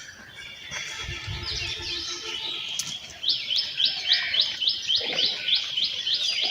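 A small bird chirping, ending in a rapid run of short repeated notes, about four a second.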